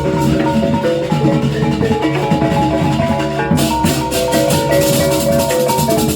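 Gamelan music: tuned metallophones play a fast, repeating pattern of struck notes. A brighter, denser layer joins about three and a half seconds in.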